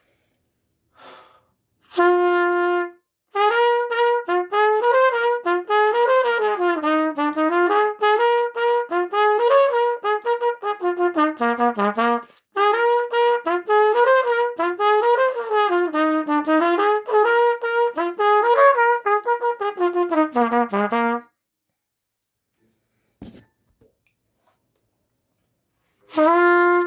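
A solo trumpet plays a held note, then a passage of quick notes stepping up and down. After a short break it plays the passage again, and starts another held note near the end. The tone is fuzzy.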